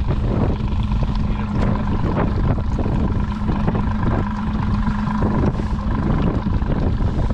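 Strong wind buffeting the microphone, with the steady hum of a boat motor running underneath.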